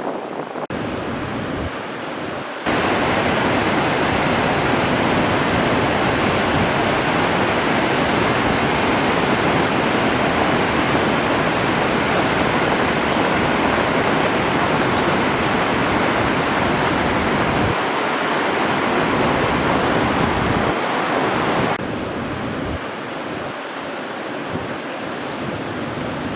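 Steady rush of a large waterfall, a dense even noise that jumps louder about three seconds in and drops back abruptly a few seconds before the end.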